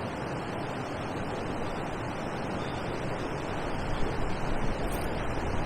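Steady rushing noise of wind on the microphone with water lapping, growing a little louder near the end.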